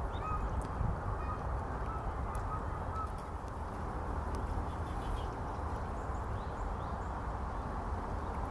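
Distant wild birds calling, a few short faint notes in the first three seconds, over a steady outdoor background noise.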